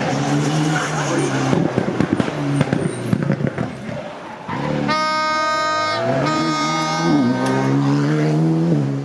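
Rally car engine worked hard, its revs rising and falling through gear changes, with a run of sharp crackles from the exhaust about two to three seconds in. Over the engine, a high piercing tone sounds twice, about a second each time, a little past the middle.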